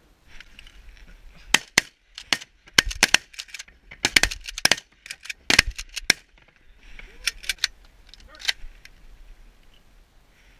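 A rapid volley of shotgun shots from several guns, a dozen or more sharp cracks, many overlapping in quick succession, as hunters fire at ducks.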